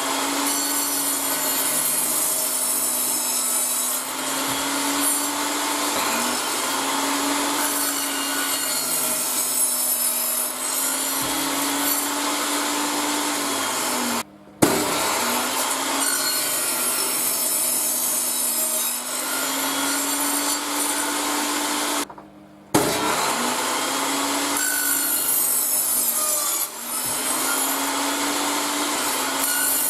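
Power woodworking machine cutting pine boards: a steady motor hum with cutting noise, its pitch sagging and recovering as each board loads it. It stops abruptly twice.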